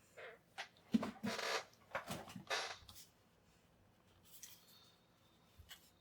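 A quick run of clicks, taps and short scraping rustles from small objects being handled, bunched in the first three seconds, then only a couple of faint clicks.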